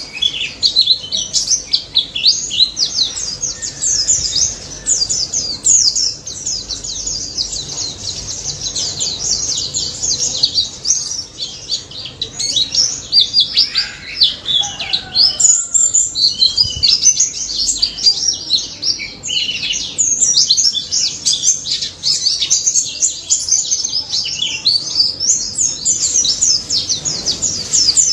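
White-eye (pleci) singing without a break: a fast, dense stream of high-pitched chirps and twittering trills in the rapid-fire 'nembak' style that bird keepers prize.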